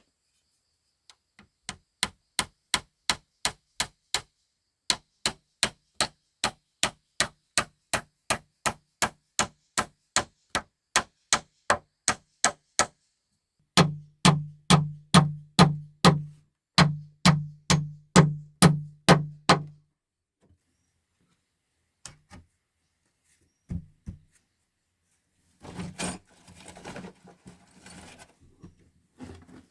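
Rapid, regular blows of a hand tool striking wood, about three a second, with a heavier, deeper-thudding run of blows about halfway through. Then come a few single knocks and a short stretch of crunching near the end.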